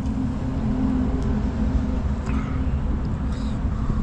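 Steady low rumble of passing road traffic with a faint engine hum, and a few light clicks.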